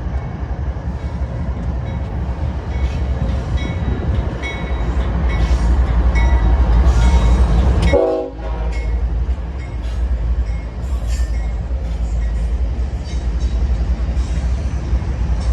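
Freight train diesel locomotives running past with a heavy, steady low rumble that grows louder toward the middle. There is a brief horn blast about halfway through, and the horn sounds again right at the end.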